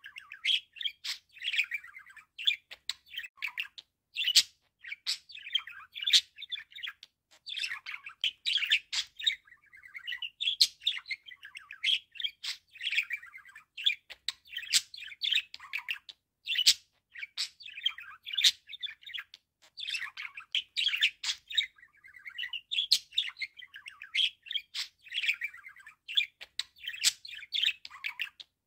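Budgerigar warbling and chattering: a continuous run of chirps, whistles and clicks in phrases of a few seconds, with brief breaks.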